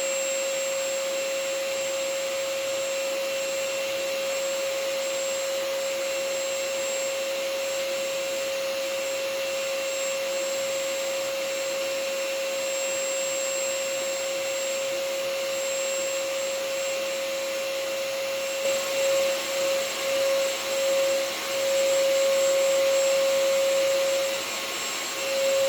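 Vacuum cleaner running continuously: a steady rushing hum with a strong single pitch and a faint high whine. About three-quarters of the way in it grows louder and starts to swell up and down in level.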